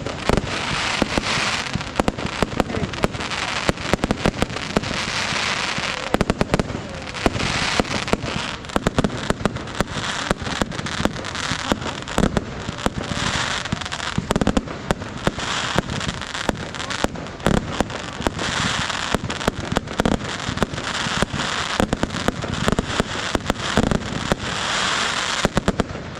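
Fireworks display going off in a steady barrage: many sharp bangs in quick succession over a continuous crackle, with no pause.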